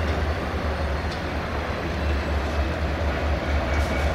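Locomotive-hauled passenger train moving slowly through a station: a steady low rumble with a few faint clicks.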